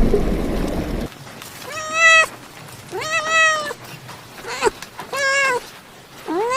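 A domestic cat meowing repeatedly: four separate meows about a second apart, with a fifth starting near the end. A loud rushing noise during the first second cuts off abruptly before the meows begin.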